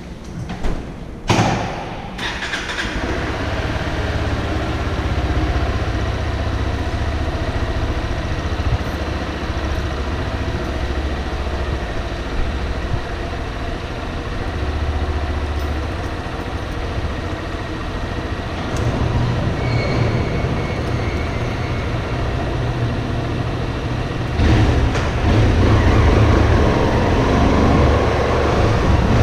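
Honda XRE 190 single-cylinder engine started about a second in, then idling steadily in an enclosed garage. Near the end it gets louder as the bike pulls away.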